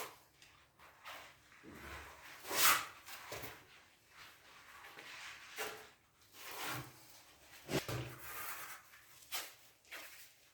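Irregular knocks and clicks with rustling between them, the loudest knock about a quarter of the way in.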